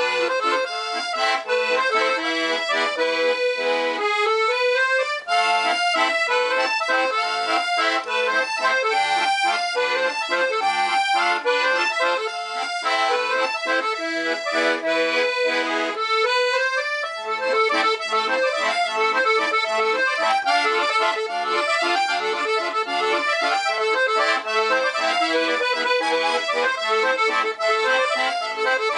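Black Parrot piano accordion with LMM treble reeds, played as a continuous tune of sustained chords and melody, with quick upward runs of notes twice.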